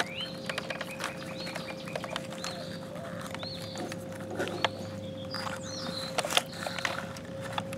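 Small birds chirping over and over in short rising-and-falling calls, with scattered sharp clicks and a steady low hum underneath.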